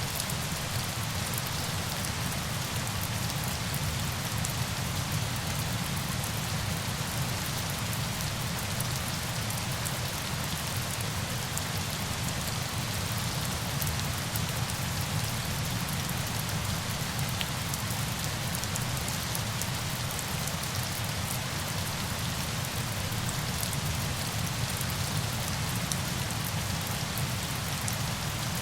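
Steady hiss of falling water with a fine patter of drops and a low rumble beneath, at an even level.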